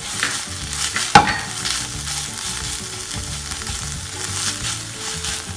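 Wooden spatula stirring and scraping shredded vegetable and chicken filling around a hot nonstick pan, the food sizzling, with repeated short scraping strokes. A sharp knock comes about a second in.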